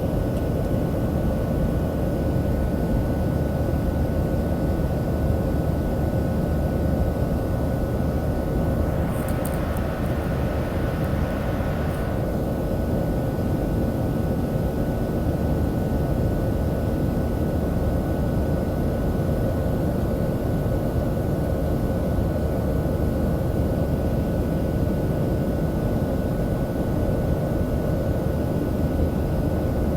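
Steady in-flight cabin noise of a Boeing 737-700 heard from a passenger seat: a constant engine and airflow rush with a few steady hum tones. A brief hiss rises over it about nine seconds in and fades by about twelve seconds.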